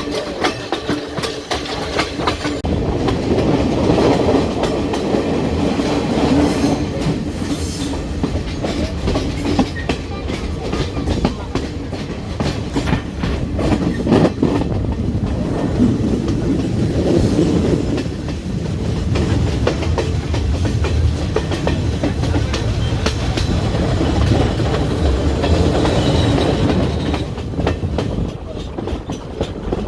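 Passenger train running on the rails: a steady rumble with the wheels clicking over the rail joints.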